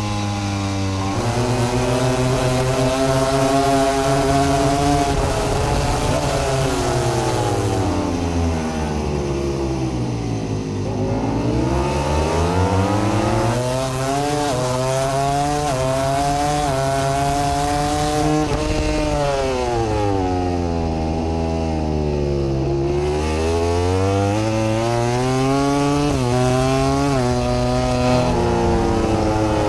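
MotoGP racing motorcycle engine at full race speed, its pitch climbing in steps as it shifts up through the gears and sliding down as it brakes and shifts down for corners, twice over.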